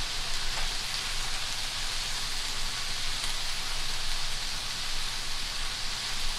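Sliced onions and bell peppers sizzling steadily in a hot frying pan over medium-high heat.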